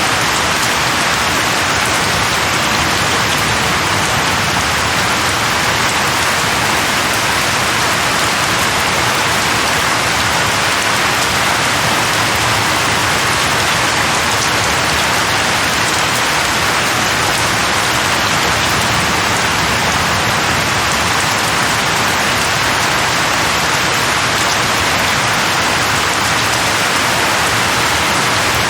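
Steady heavy rain falling on a surface, an even, unbroken hiss of drops.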